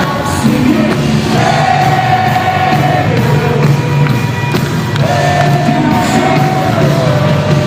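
Live worship band with a lead vocalist, the singer holding two long notes that each step down in pitch at the end over a steady band accompaniment.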